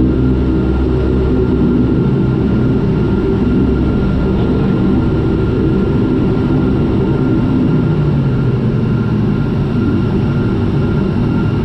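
Turboprop airliner's engines and propellers running steadily at low power while taxiing after landing: a deep, even hum with a thin steady whine above it.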